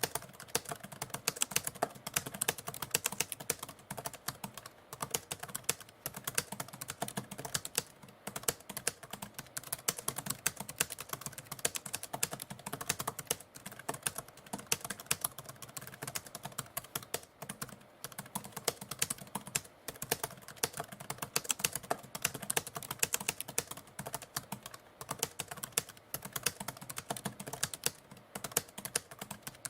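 Typewriter keys being typed in a fast, continuous run of clacks, broken by brief pauses every few seconds.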